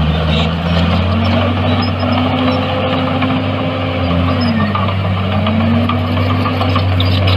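Heavy diesel engine of earthmoving equipment running under load with a steady low drone; its pitch rises about a second in, dips briefly around the middle and climbs back as the revs change.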